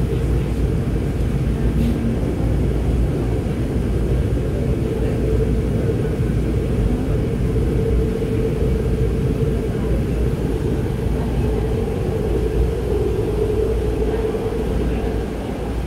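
Running noise inside the carriage of a moving electric metro train: a steady low rumble with a hum running through it.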